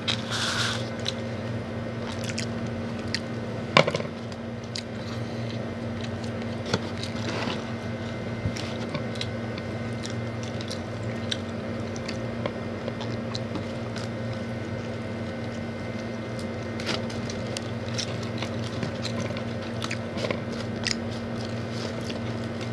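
Eating sounds of Popeyes fried chicken and fries: biting and chewing, with the rustle of a paper fry box and a sharp tap about four seconds in, over a steady low hum.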